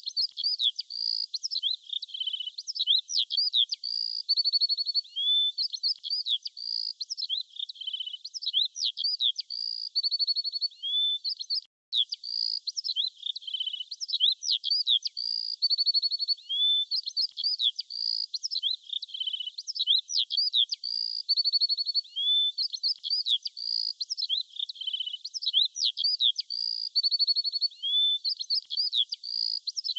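Small songbirds chirping continuously in quick, high-pitched notes, with slurred calls and rapid trills, broken off for a moment about twelve seconds in.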